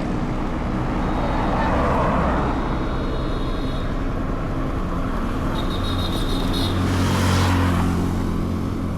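Motorcycle engine running steadily under way, with road and traffic noise that swells twice, about two seconds in and again late on.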